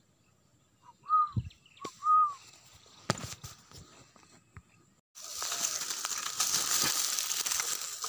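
Two short arched whistled bird calls about a second apart, with a dull thump between them. About five seconds in, a steady rush of noise takes over.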